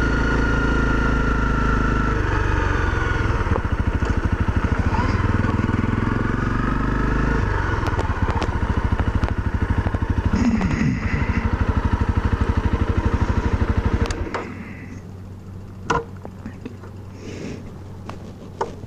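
Honda CRF250L's single-cylinder engine running as the bike slows onto gravel, then idling with even pulses until it is switched off about fourteen seconds in. A few sharp clicks and knocks follow.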